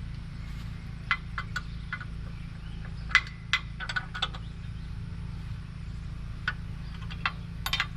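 Irregular sharp metallic clicks and clinks of a wrench working on the mini skid steer's track tensioner, which is still tight. The loudest click comes a little past three seconds in. A steady low hum runs underneath.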